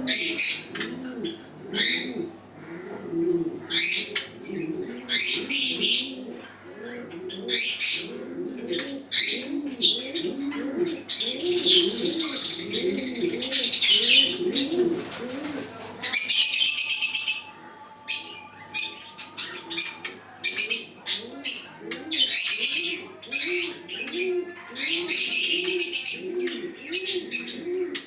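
Chocolate Java sparrows chirping in sharp, repeated bursts, some running into longer twittering phrases, over continuous low cooing from pigeons.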